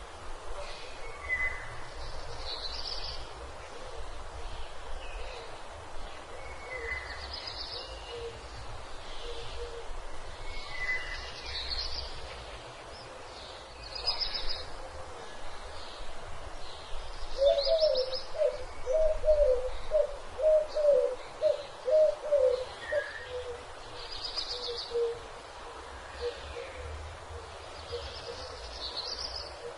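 Birds calling: a short high call repeats every few seconds, and in the middle a run of about nine low notes comes at roughly two a second.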